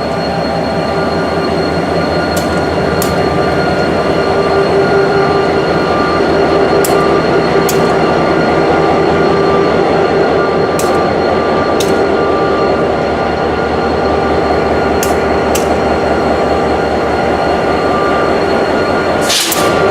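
Diesel locomotive engine running steadily at close range, a continuous low throb with a steady high whine over it. A few faint sharp clicks, and a brief rush of noise near the end.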